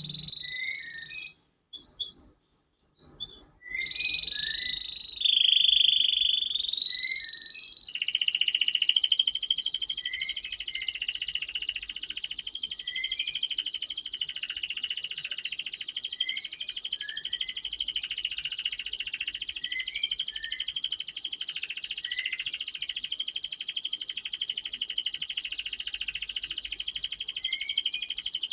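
Domestic canary singing a long, high-pitched trilling song with short falling chirps woven through it. After a few broken phrases and a brief pause in the first seconds, the song runs unbroken from about eight seconds in.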